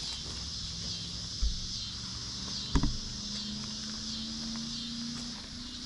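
Insects chirring steadily in the background, with a soft thud about a second and a half in and a sharper knock near three seconds.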